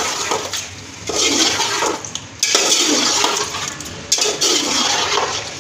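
Chicken and yogurt being stirred in a pot of hot ghee: a wet, hissing sizzle with spoon scraping, in three surges about a second and a half apart.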